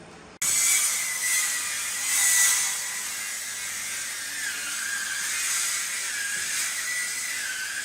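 A high-speed electric power tool running on wood, with a dense high hiss and a steady whine that sags in pitch a few times. It starts abruptly about half a second in.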